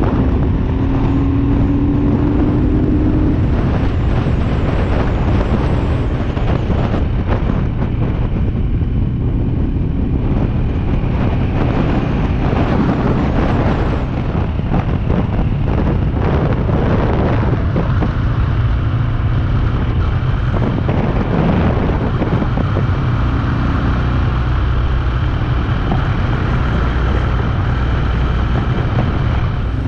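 BMW R27's 250 cc single-cylinder engine running steadily while the motorcycle is ridden along an open road, with wind noise on the microphone.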